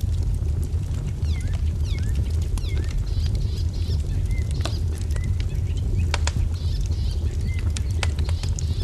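Wood fire crackling, with scattered sharp pops over a steady low rumble. Small birds chirp throughout with short, repeated down-sweeping calls.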